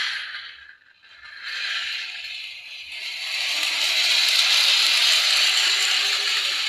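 Model train running on its track: a mechanical rattling whir that drops away almost to nothing about a second in, then builds back up and holds steady.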